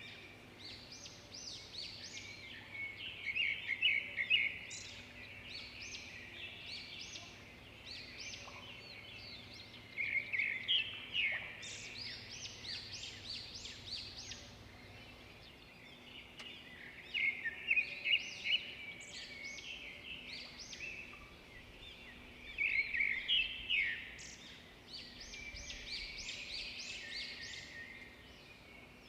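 Songbirds chirping and singing in bursts of quick, high chirps that recur every few seconds, over a faint steady background hum.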